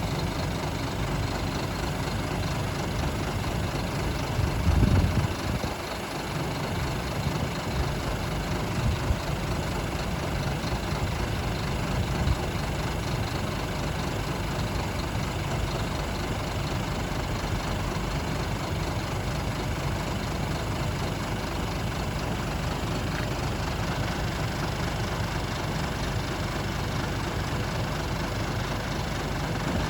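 Scania R480 truck's diesel engine idling steadily, briefly louder about five seconds in.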